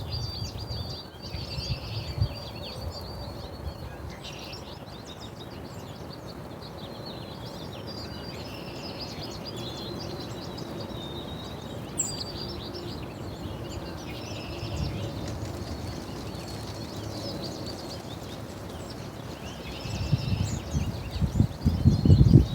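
Small birds chirping and twittering repeatedly in short, high calls. A stretch of low rumbling thumps near the end is the loudest part.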